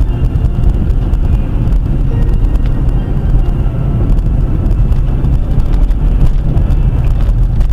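A vehicle on the move, picked up by a dashcam microphone: a loud, steady low rumble of engine and road noise.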